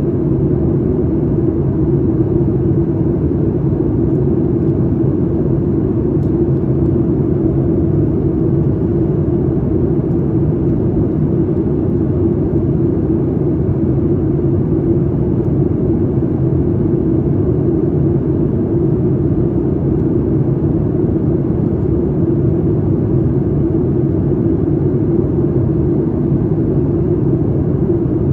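Steady in-flight cabin rumble of a Boeing 737 MAX 8, from its CFM LEAP-1B turbofans and airflow over the fuselage. It is a constant, even, low drone.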